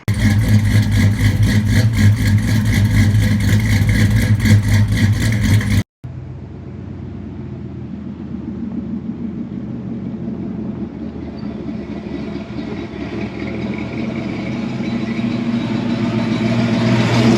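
A vehicle's engine running while driving, loud with a fast, even pulsing for about six seconds. After a sudden cut it is quieter, mixed with road noise, and slowly grows louder.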